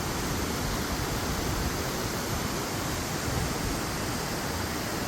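Steady outdoor rushing noise, even and unbroken.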